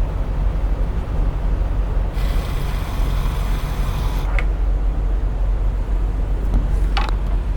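Steady low rumble of an idling semi truck at a diesel fuel island. A hiss lasting about two seconds starts a couple of seconds in, and there is a short click near the end.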